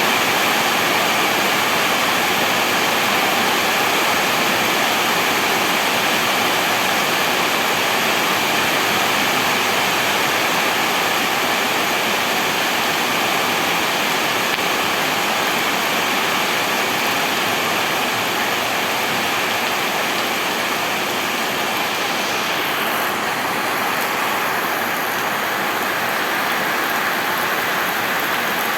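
Steady rain falling, an even hiss with no breaks; the highest part of the hiss thins a little about two-thirds of the way through.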